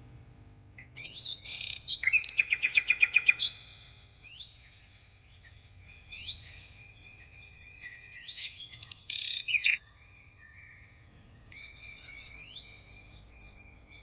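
Songbirds chirping and singing, with a loud, fast trill of rapid repeated notes about two seconds in.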